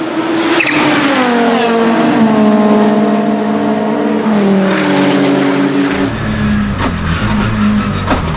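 Audi 200 Turbo Quattro's 2.2-litre turbocharged five-cylinder engine, its note falling in steps as the revs drop, with several short sharp chirps from the turbo. A deeper rumble comes in for the last couple of seconds.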